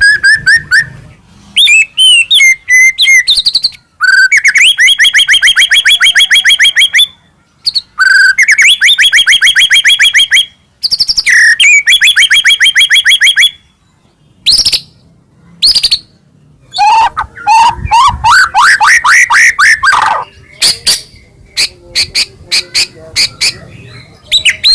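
White-rumped shama singing: long runs of fast repeated notes, about ten a second, broken by short pauses. Later come rising swept notes, then a string of sharp clicks near the end.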